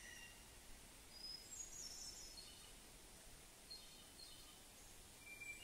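Faint bird chirps and short trills, high-pitched and coming every second or so, over a low steady hiss.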